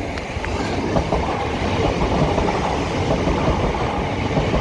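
Southern Class 377 Electrostar electric multiple unit 377109 running by, a steady rumble of wheels on rail.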